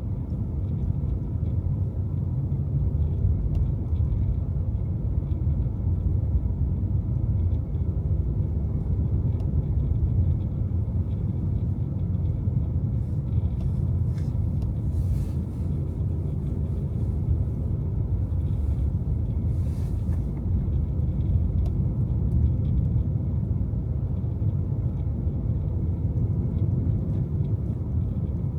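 Car driving on snowy city streets: a steady low rumble of engine and road noise. A faint brief hiss comes twice, about halfway through and again a few seconds later.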